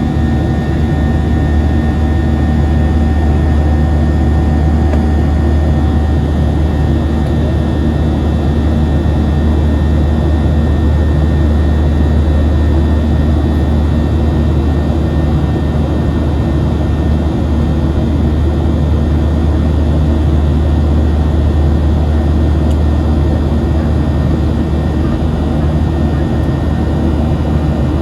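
Steady cabin drone of a Boeing 737-700 jetliner, heard from inside the cabin at a forward window seat. A deep, even hum from the engines and airflow runs under a rush of air, with faint thin whine tones above.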